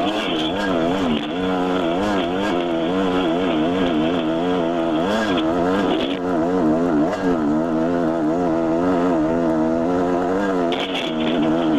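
Dirt bike engine running under way on a trail, its pitch rising and falling constantly with the throttle.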